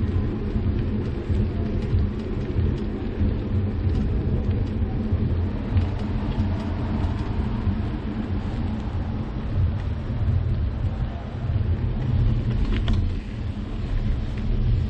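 Wind buffeting the microphone and road rumble from a bicycle being ridden: a steady low rumble that wavers in loudness.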